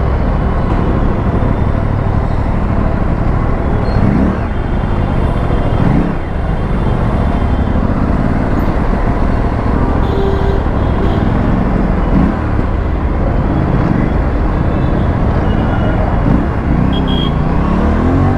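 Aprilia RS457's parallel-twin engine running under way in traffic, its note rising and falling several times as it is revved.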